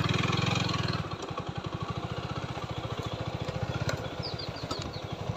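TVS Apache 4V motorcycle's single-cylinder engine running at low revs with an even, rapid pulse, a little louder for the first second and then settling.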